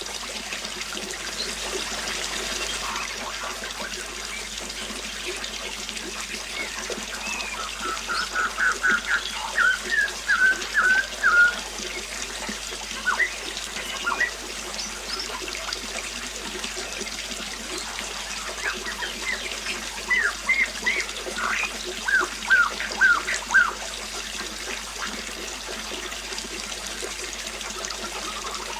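Water trickling steadily, with a bird chirping in two runs of quick, short notes, one about a third of the way in and another past two-thirds.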